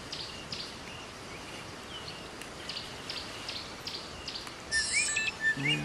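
Wild birds calling in the bush: a steady run of short, high chirps, several a second, then about three-quarters of the way in a louder bird joins with a series of rising, looping whistles.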